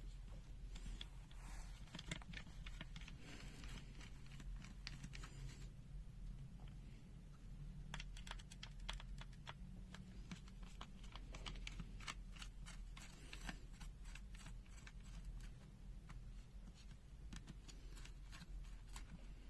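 Small clicks, taps and scrapes of a UNI-T UT60S multimeter's plastic case and circuit board being handled and worked apart during disassembly, coming thick and fast in the second half, over a low steady hum.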